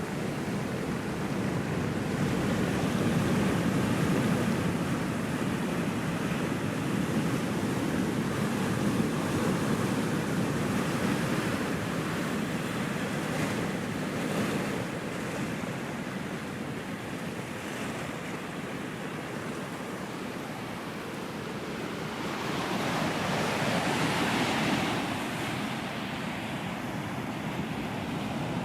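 Ocean surf: a continuous rushing of waves breaking and washing ashore, swelling and easing, with a louder, hissier wash of a breaking wave about 23 seconds in.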